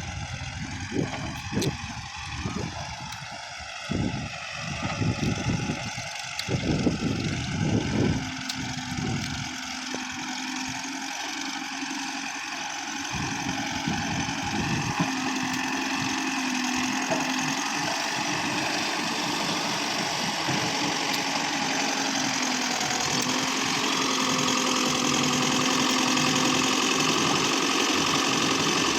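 Diesel tractor engine running, uneven and thumping for the first several seconds, then settling into a steady drone that grows a little louder.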